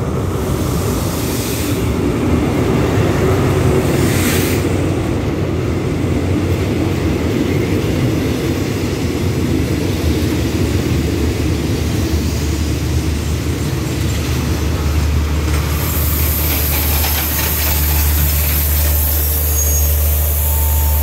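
Diesel locomotive and its passenger coaches rolling in along a station platform and drawing to a stop: a steady low engine rumble under the clatter of the coaches, with short hisses of air early on. From about three-quarters of the way in comes a long steady hiss of air brakes as the train comes to a stand, over the low hum of the idling engine.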